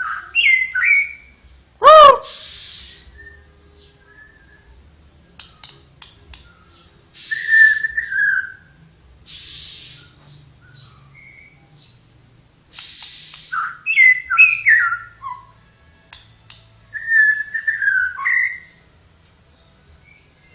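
A caged songbird known in Indonesia as tledekan singing short bursts of clear whistled notes, many of them falling, with pauses between phrases. A loud, lower call rings out about two seconds in, and short hissy bursts and clicks fall between the phrases.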